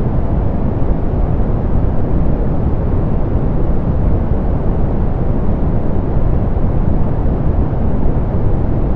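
Steady soft pink noise: an even, unchanging hiss weighted toward the low end, with the highs rolled off.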